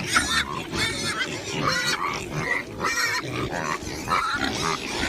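Pigs grunting and squealing, with many short, irregular calls that cut off suddenly at the end.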